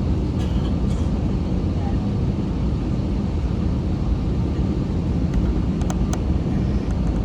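Steady low rumble inside the cabin of an Airbus A321 on the ground, with a few sharp clicks about six seconds in.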